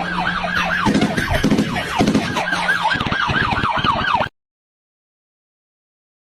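Rapid yelping siren, about four quick pitch sweeps a second, over a steady low engine hum. It cuts off suddenly a little over four seconds in.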